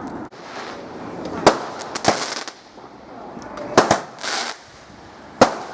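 Fireworks going off: about five sharp bangs, two of them in quick succession near the middle, with hissing between the bangs.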